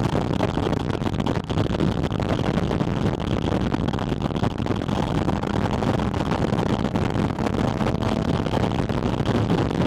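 Porsche Spyder RS's naturally aspirated flat-six heard through a microphone on its air intake, running at a steady pace while driving, mixed with wind rushing over the microphone.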